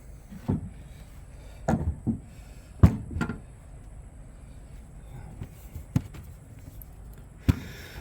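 Wooden boards knocking and clacking as they are handled and set down, in several irregular sharp knocks bunched in the first half, with one more near the end.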